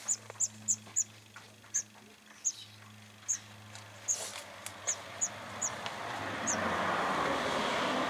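Small bird chirping: about a dozen short, high, downward chirps at uneven intervals, over a low steady hum. Toward the end a rising rush of a passing vehicle swells up.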